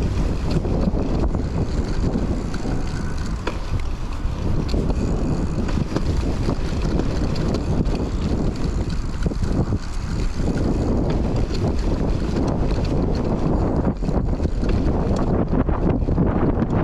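Wind buffeting a chest-mounted camera's microphone while riding a Raleigh Trailblazer hardtail mountain bike on an off-road trail, with steady tyre rumble and frequent small rattles and ticks from the bike.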